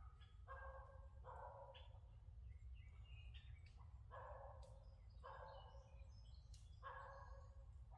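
Faint forest ambience: scattered bird chirps over a low steady rumble, with a short mid-pitched sound recurring about every second.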